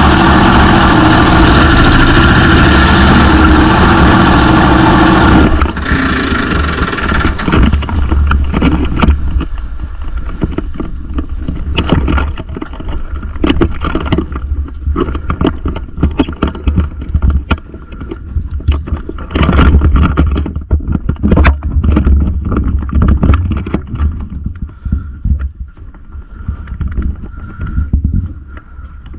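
Blown, fuel-injected big-block Chevy V8 in a drag boat running loud and steady, then dropping suddenly about five and a half seconds in to an uneven, surging idle.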